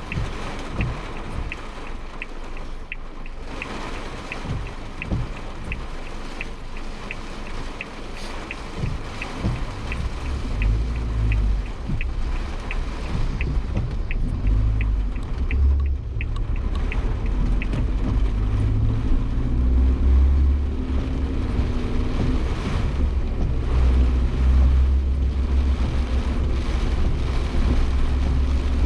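Rain beating on a Suzuki Jimny Sierra, heard from inside the cabin, with a turn-signal relay ticking about one and a half times a second until about 17 s in. From about 10 s in, the engine and road rumble swell as the car pulls away and gathers speed.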